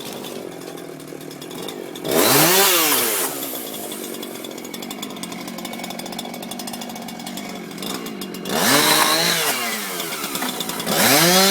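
Chainsaw idling, revved up three times in bursts whose pitch climbs and falls, about two seconds in, about eight and a half seconds in and near the end.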